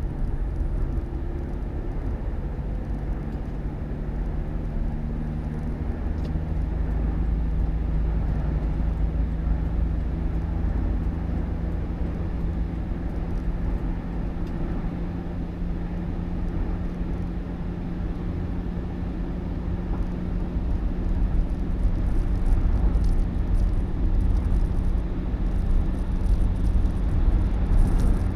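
Steady drone of a road vehicle on the move, engine and road noise mixed, with a low steady hum throughout.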